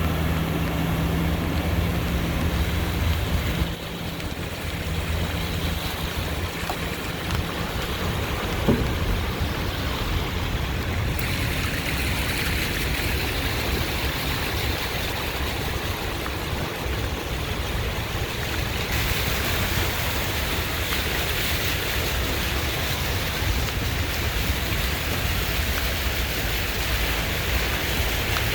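Steady rushing of flash-flood water and rain. A low engine hum runs under it for the first few seconds, then fades out.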